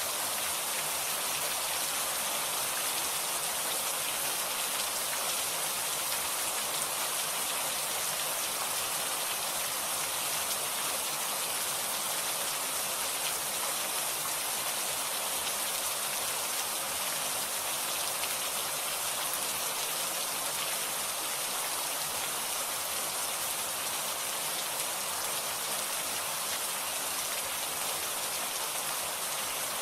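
Steady heavy rain falling on surfaces, an even hiss with no thunder.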